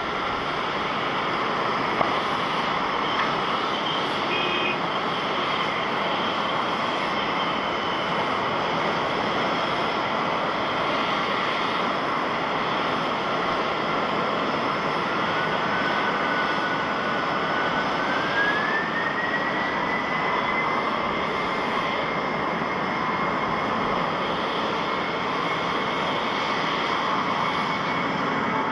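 Jet airliner engines, a Japan Airlines Boeing 767, running with a steady rushing noise and a thin whine. About two-thirds of the way through, the whine rises in pitch and holds higher, as the engines spool up.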